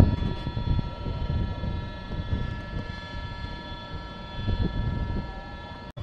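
Train running through the station: a rough low rumble with several steady whining tones above it, typical of an electric train's traction drive. The sound drops out for an instant near the end.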